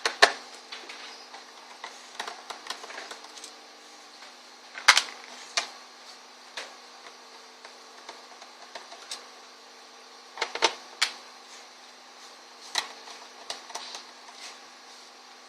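Irregular clicks and taps of a screwdriver and small screws against a laptop's plastic bottom case as the case screws are taken out, with a few louder knocks, over a faint steady hum.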